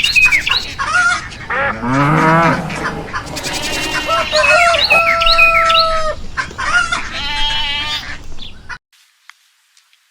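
A rapid string of different animal calls, one after another, including farm animals and birds, with several changes of pitch and call type. It cuts off suddenly near the end.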